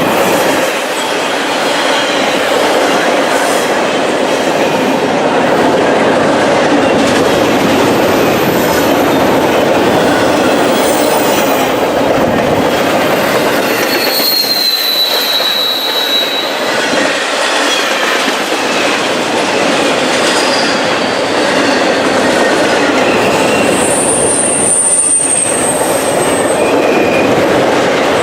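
Freight train cars rolling past, a loud steady rumble of steel wheels on rail with some clickety-clack. High-pitched wheel squeals come in around the middle and again near the end.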